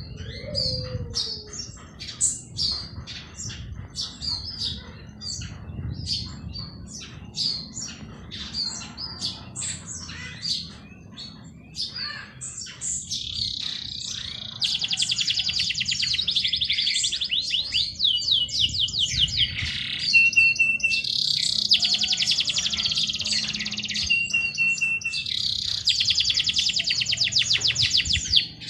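Songbirds chirping with many short, high notes. About halfway through, a bird starts singing long, fast trills a few seconds each, with a brief steady whistled note between them.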